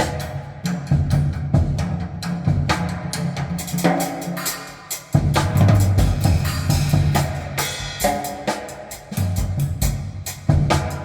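Recorded music with a drum kit and a sustained bass line, played back over loudspeakers and picked up by a microphone in the room. Close-spaced drum and cymbal strokes run throughout, with pitched notes entering higher up about four and eight seconds in.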